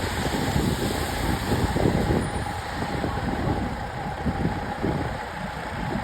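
Heavy truck engine running steadily, a continuous rumble.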